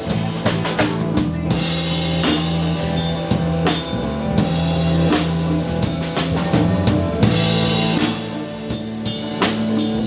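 Live blues band playing an instrumental passage: drum kit with bass drum hits, held bass notes and guitar.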